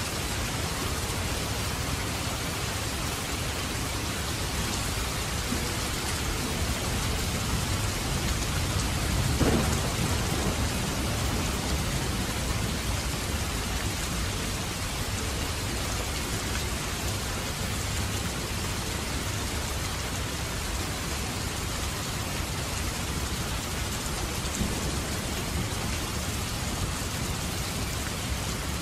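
Steady rain falling, with a brief low rumble of thunder about a third of the way in.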